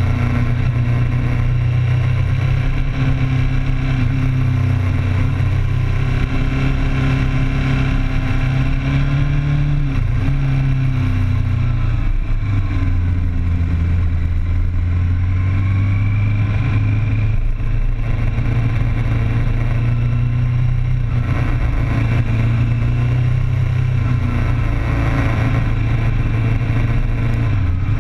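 Sport bike's inline-four engine running hard under way, its pitch rising and falling in steps as the rider works the throttle and gears through the bends, with steady wind rush over the bike-mounted camera.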